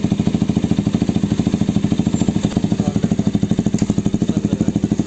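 Motorcycle engine idling steadily through an aftermarket exhaust, a loud, even, rapid putter, as the exhaust's sound is being tried out at the shop.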